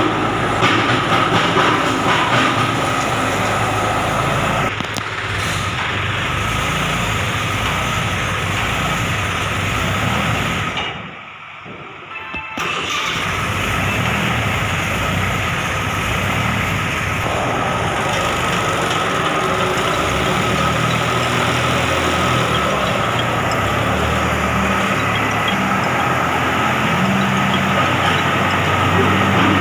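Tractor-driven stone crusher running: a loud, steady machine noise with a constant whine that drops away briefly about eleven seconds in.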